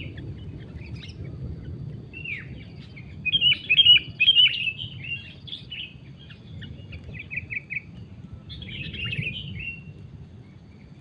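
Sooty-headed bulbuls (kutilang) calling in bursts of quick chirpy notes. The loudest burst comes about three to five seconds in, a quick run of four short notes follows around seven seconds, and another burst comes near nine seconds, over a low steady background rumble.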